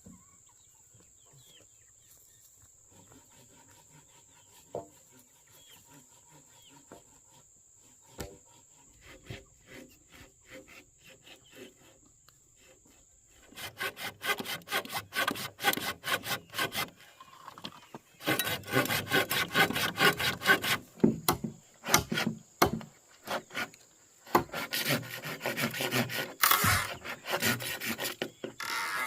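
Hand saw cutting wood in rapid back-and-forth strokes, in three bouts starting about halfway in, after a quiet stretch with a few light ticks.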